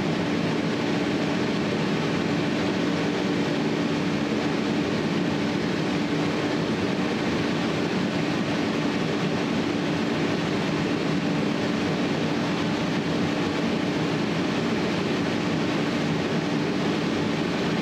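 A steady hum with an even rushing noise, a machine's drone like a fan or air handler, holding one constant pitch without change.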